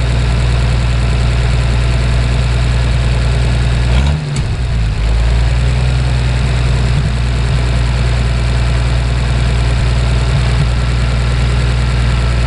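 Oliver 1550 tractor's gasoline engine idling steadily on a newly fitted ignition coil. About four seconds in it falters briefly, then settles back to a steady idle.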